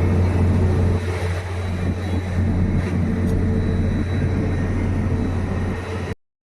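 Steady low drone of an airliner's engines on the apron, dipping slightly in level about a second in and broken by a brief silent gap near the end.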